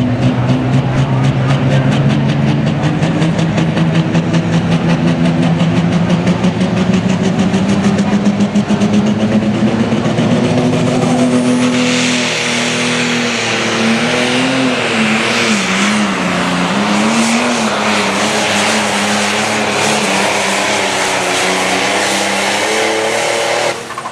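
Light pro stock turbocharged diesel pulling tractor making a pull: the engine climbs steadily in pitch, then from about twelve seconds in a loud hiss joins and the pitch wavers up and down as the engine works under the load. The sound falls off sharply near the end as the throttle comes off.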